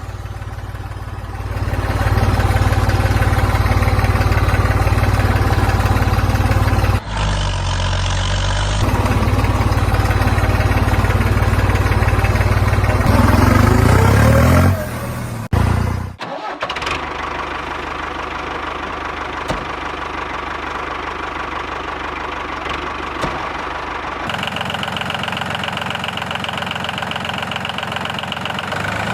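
Engine running steadily with a low, even hum. It rises in pitch briefly about halfway through, and the sound changes abruptly several times, as at cuts between shots.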